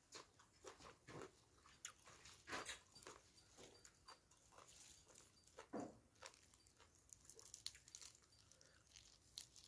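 Faint, scattered chewing and crunching of a person eating green papaya salad with raw leafy greens, a few short mouth clicks and crunches spread through the near-quiet.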